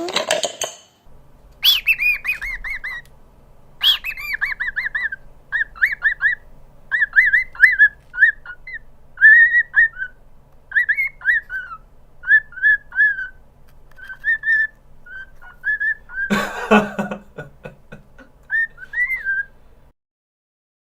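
Pet parrot chirping and whistling in a long string of short notes that rise and fall. A brief harsh noise sounds about sixteen seconds in.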